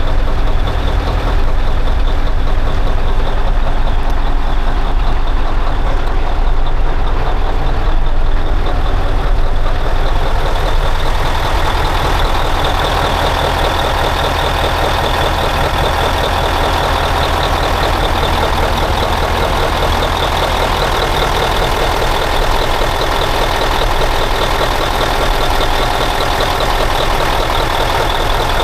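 Big diesel truck engine of a custom Scania 112 V8 idling steadily, its tone shifting about eleven seconds in.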